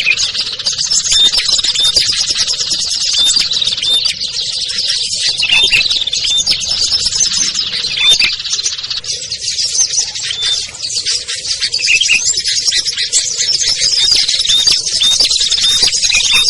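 A dense chorus of many small songbirds chirping and trilling over one another, with no pause, in a busy layered mix of high, quick calls.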